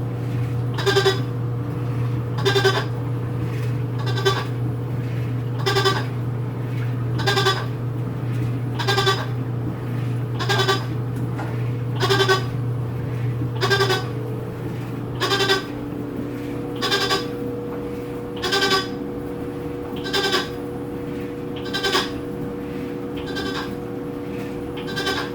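Whirlpool WTW4816FW top-load washing machine running, with a short, high squeak that repeats about every second and a half over a steady low motor hum. The low hum drops a little about halfway through. The owner finds the squeak strange and annoying and does not know whether it is normal.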